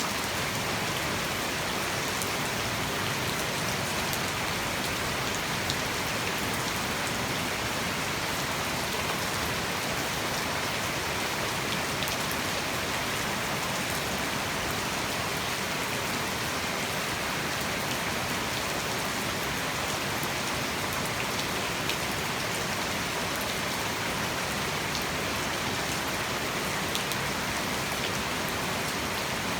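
Heavy tropical rain falling steadily, a dense even hiss with many individual drops ticking on hard surfaces.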